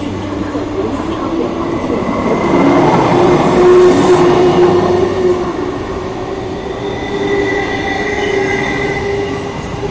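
SP-1900 electric multiple unit train running past along the platform: rolling rumble of wheels on rail with steady whining tones. It builds to its loudest about four seconds in, then eases off.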